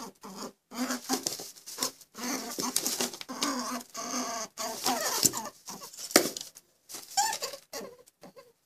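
A string of short pitched animal calls, one after another with brief gaps between them.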